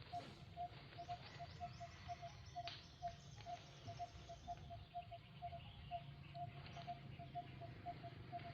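A bird calling a short, single-pitched note over and over at an even pace, a few times a second, over faint outdoor ambience with a low rumble.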